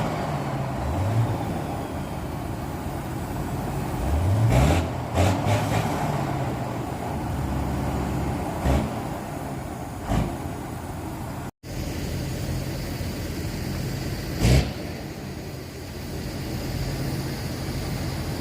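Truck tractor diesel engines running and accelerating, the engine pitch climbing and dropping repeatedly as the trucks pull through gears. There are a few short loud bursts about five seconds in and again near fifteen seconds.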